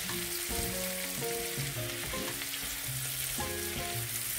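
Sliced zucchini, yellow squash and potatoes sizzling in a hot sauté pan as a spatula stirs them through the seasoning, a steady frying hiss with the scrape of the stirring. Background music with short melodic notes plays underneath.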